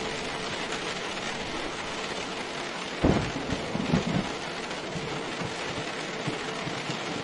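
Steady rain falling, with a short clap of thunder about three seconds in that rumbles on for a second or so.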